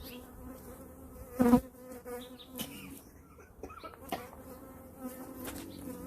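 Steady buzzing hum of a colony of Italian honeybees around an open hive, with one bee buzzing loudly close by about a second and a half in. A few light knocks are heard as hive parts are handled.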